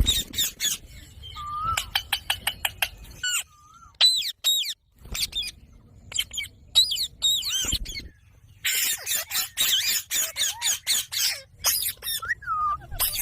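Ringneck parrot chirping and squawking: short, high calls that sweep quickly up and down in pitch, in bursts with short gaps, becoming a dense rapid run of calls in the second half.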